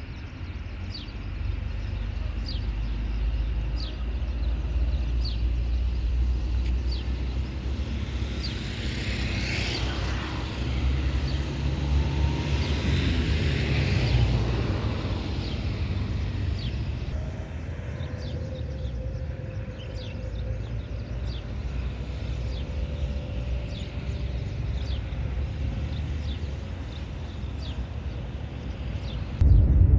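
Boeing 737-800 jet engines (CFM56-7B turbofans) at takeoff power: a deep rumble with a rising and falling hiss that swells to its loudest from about nine to fifteen seconds in, with shifting pitch as the aircraft passes, then settles to a steadier, fainter rumble.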